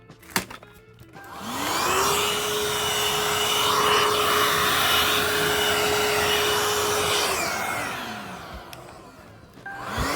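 Hoover H-free 100 cordless stick vacuum cleaner switched on: its motor spins up with a rising whine, runs steadily with a rushing hiss for about six seconds, then winds down. Near the end it is briefly switched on and off again.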